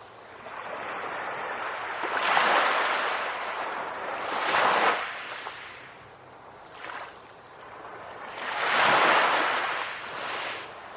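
Ocean waves breaking on a shore and washing back in slow surges, with three larger swells, the last and loudest about three quarters of the way in.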